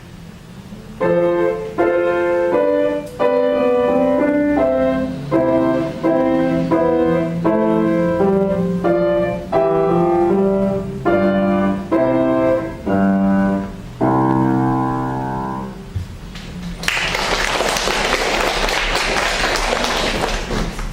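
Piano playing the closing bars of a classical piece in detached chords, ending on a held final chord about 14 seconds in. About a second after it dies away, an audience starts applauding and keeps on.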